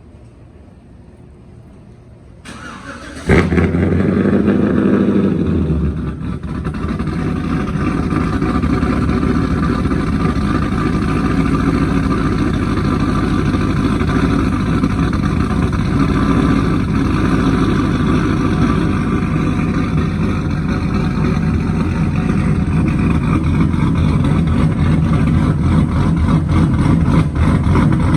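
Cammed 5.3 V8 Chevrolet Silverado with a Corsa exhaust being started: a brief crank, the engine catching with a loud flare that settles after a few seconds, then running steadily at idle.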